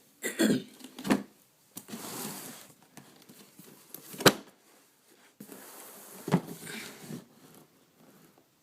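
Handling noise: rubbing and rustling broken by several knocks, the sharpest and loudest about four seconds in.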